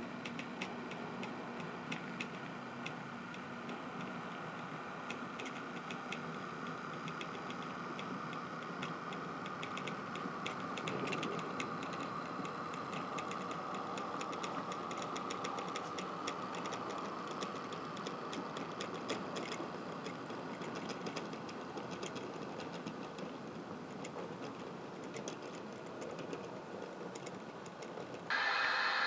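Dapol Class 29 model locomotive, without a sound decoder, running along the track: the steady whir of its small electric motor and gears with a fast patter of light ticks from the wheels over the rail joints. Just before the end a louder, different whirring sound cuts in abruptly.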